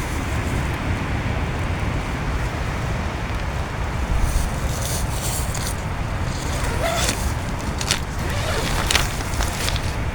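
Heavy rain falling steadily with wind rumbling on the microphone, and a few sharper taps of drops now and then.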